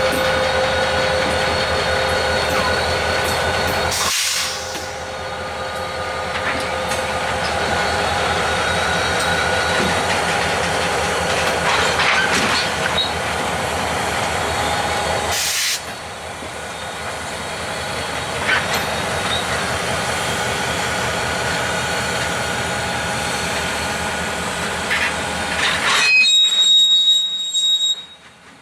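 Union Pacific freight train rolling along the rails: a steady clatter and rush of wheels, with thin, steady high squealing tones over it, louder just before it drops off sharply near the end.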